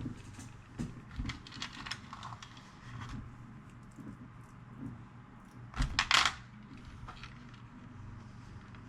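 Small screws clicking and rattling as they are picked out of a plastic tackle box, a run of light clinks with a louder clatter about six seconds in.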